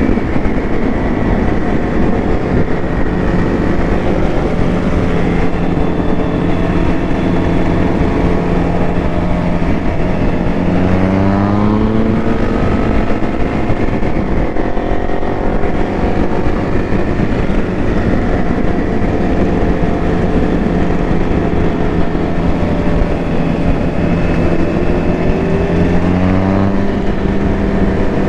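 Motorcycle engine running at a steady cruise under heavy wind rush, with two rising pulls in engine pitch as the rider accelerates, about ten seconds in and again near the end.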